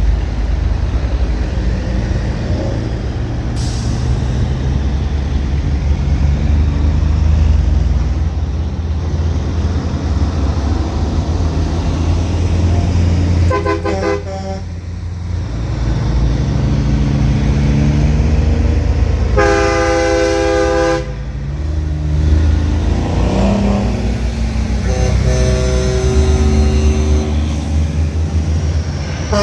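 Diesel semi-truck engine running steadily on the road, with truck horns sounding several times: short toots about halfway through, a long blast of roughly a second and a half a little later, and more horn notes near the end.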